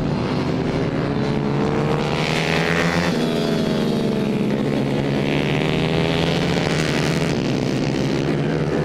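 Several small racing motorcycle engines running hard at once, their pitch rising and falling as they accelerate, shift and pass by, overlapping one another.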